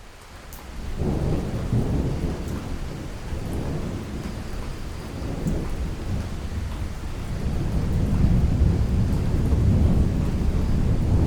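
Thunderstorm: a low rolling rumble of thunder over steady rain, swelling about a second in and growing louder again in the second half.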